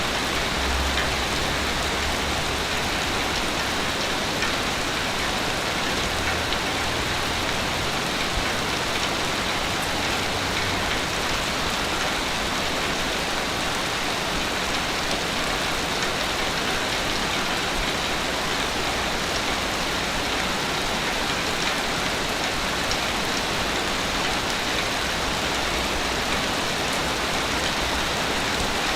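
Ocean waves on a beach: a steady, unbroken hiss of surf, with a low rumble that comes and goes during the first ten seconds or so and again near the end.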